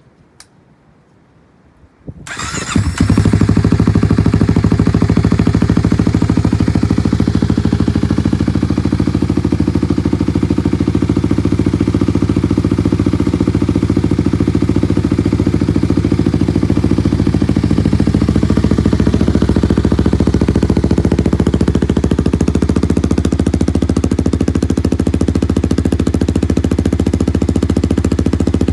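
2021 Kawasaki KLX300's single-cylinder four-stroke engine, breathing through an aftermarket 9-inch Delkevic muffler, starting about two seconds in and then idling steadily.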